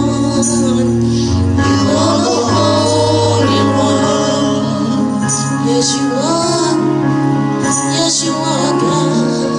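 Gospel music: voices singing held, sliding notes over instrumental accompaniment with sustained low bass notes and a high shimmer of cymbal or tambourine.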